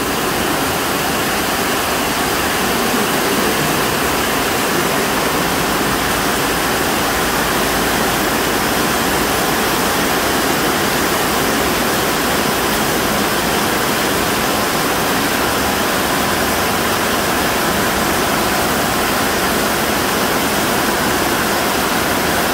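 Steady rain falling on a corrugated metal roof overhead, an even hiss with no breaks.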